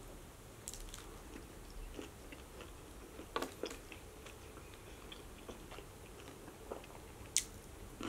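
A person chewing a mouthful of sandwich close to the microphone, with soft, scattered wet mouth clicks. Two sharper clicks come about three and a half seconds in and near the end.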